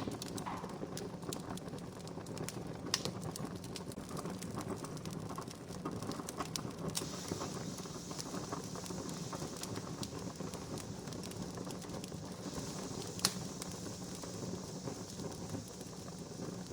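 Wood fire crackling: a steady hiss of burning wood broken by many sharp snaps and pops, with two louder pops about three seconds in and near the end.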